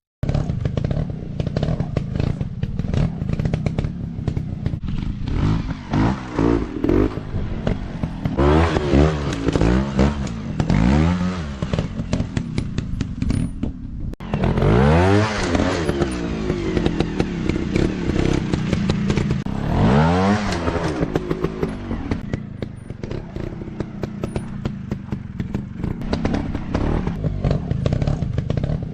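Off-road dirt bike engines running and revving, the pitch swinging up and down several times, with clattering and scraping over the ground.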